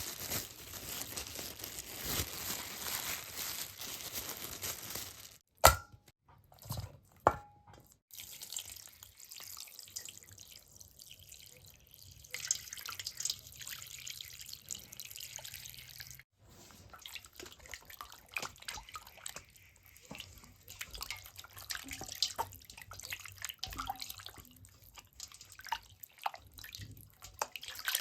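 Water splashing and dripping, broken by two sharp knocks about six and seven seconds in, then lighter clatter and dripping.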